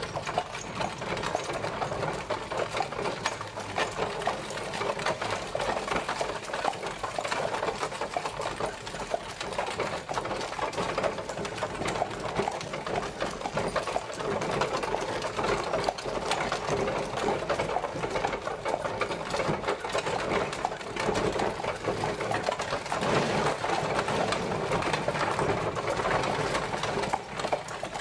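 Horse-drawn carriage traveling: a steady, dense rattling clatter from the moving carriage that goes on unbroken.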